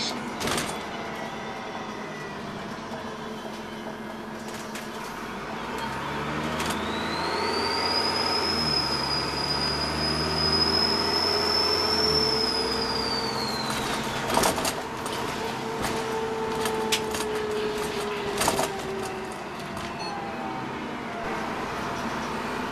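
Dennis Trident double-decker bus's diesel engine running, with a high turbo whistle that rises about six seconds in, holds steady for several seconds, then falls away as the engine eases off. Sharp rattles or knocks sound twice in the second half.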